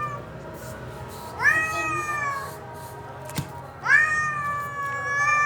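Domestic cat meowing: two long, drawn-out meows, each rising quickly in pitch and then held, about a second and a half in and again near the end, with the tail of an earlier meow at the start.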